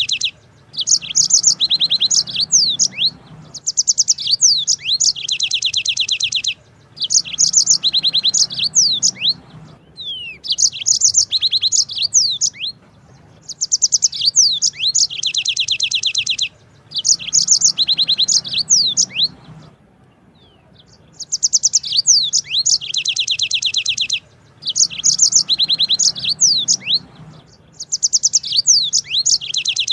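Yellow-fronted canary (Mozambique canary) singing a long rolling song: phrases of rapid, high trills a few seconds long, repeating with short pauses between them.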